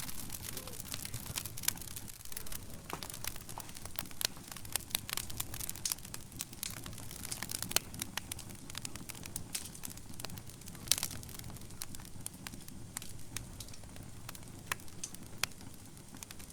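Wood fire burning in a fireplace, crackling with many irregular sharp pops and snaps over a steady low rumble of flames.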